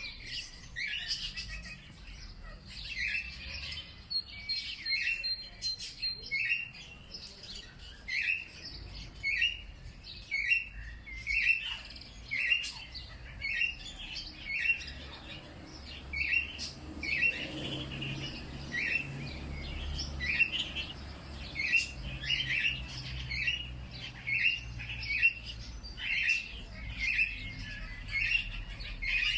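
Birds chirping: a short call repeated over and over, about one to two times a second, with other faint bird calls around it.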